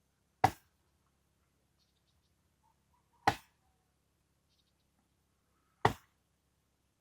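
Three sharp strikes, evenly spaced about two and a half seconds apart, each dying away quickly.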